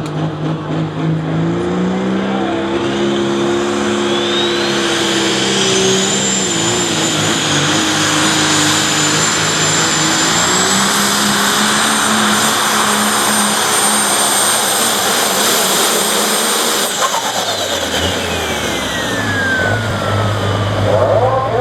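Pulling tractor's engine under full power on a pull, with a high whine that rises and holds steady for most of the run. Near the end the power comes off and the whine falls away in pitch as the engine drops back.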